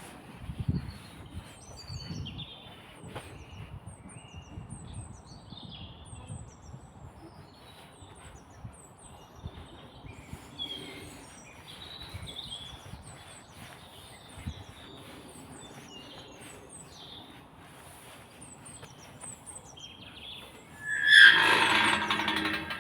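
Small woodland birds chirping and singing, short high calls scattered throughout. Near the end a much louder, harsh squealing sound comes in over them.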